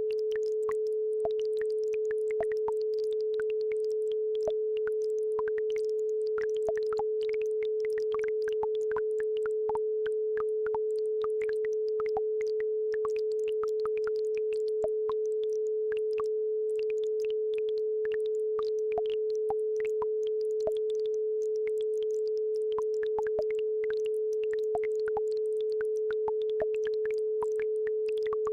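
A steady pure tone at about 432 Hz, the base frequency of an isochronic-tone track, holds unchanged throughout. Faint, scattered trickling blips of a babbling brook sit behind it.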